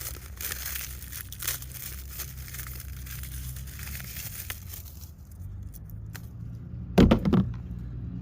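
Dry corn husks and stalks crackling and rustling as dried gem corn ears are picked and husked by hand, with a short, louder crack about seven seconds in.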